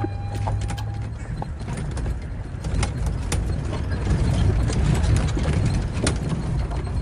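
Safari vehicle driving on a rough dirt track: a steady low rumble with frequent sharp knocks and rattles.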